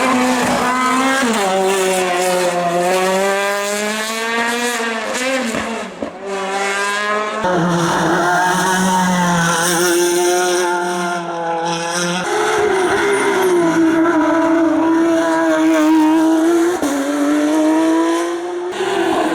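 Competition cars' engines at full throttle, heard in several short cuts one after another: each engine revs up, with the pitch climbing and then dropping at gear changes.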